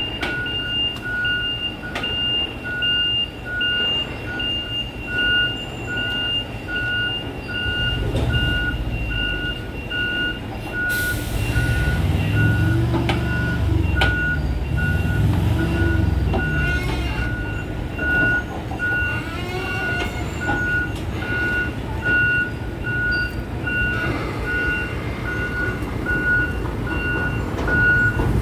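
Heavy truck's reversing alarm beeping steadily about twice a second over its diesel engine, which grows louder about eleven seconds in with a short hiss.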